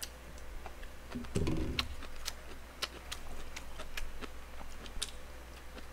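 A person chewing and eating close to the microphone: scattered small mouth clicks and smacks, with a short low hum about one and a half seconds in.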